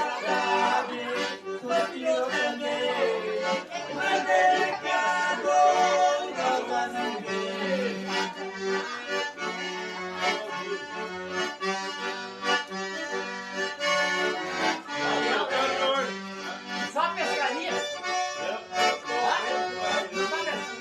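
Accordion playing a traditional tune, with a steady low bass note held under a busy melody.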